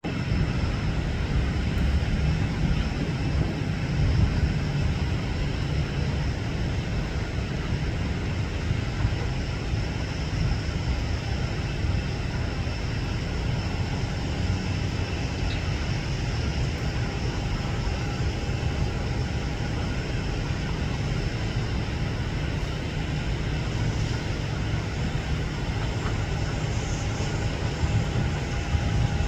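Boeing 737 airliner jet engines: a steady, even low rumble with a faint steady whine above it, holding level without rising or falling.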